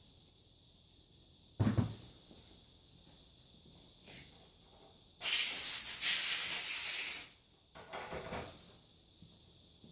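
Water hissing steadily for about two seconds as a plastic PLC module part is rinsed off after scrubbing, cutting off abruptly. A single knock of the part being handled comes a couple of seconds before it.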